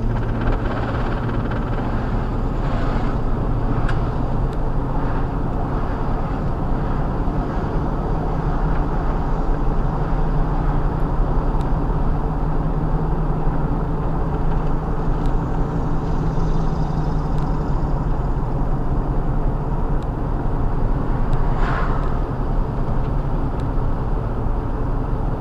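A vehicle engine running steadily, with a brief hiss about three-quarters of the way through.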